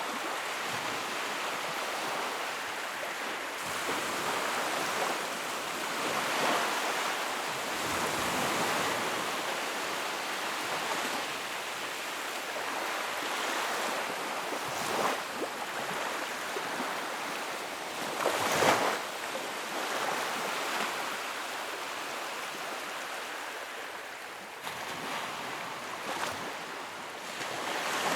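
Wood fire burning in a fireplace: a steady crackle and hiss that swells and eases, with occasional sharper pops, the loudest about two-thirds of the way in.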